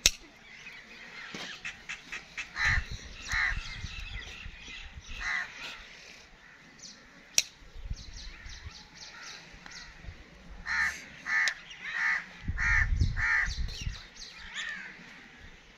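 Birds calling in short repeated notes, a few early on and then a quick run of five near the end. A couple of sharp clicks stand out, the loudest at the very start and about seven seconds in.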